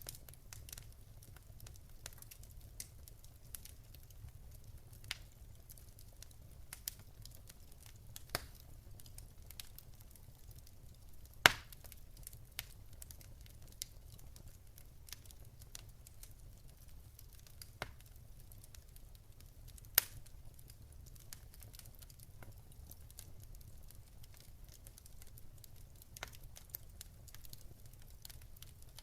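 Wood fire crackling with irregular sharp pops, two of them much louder about a third and two-thirds of the way through, over a steady low rumble.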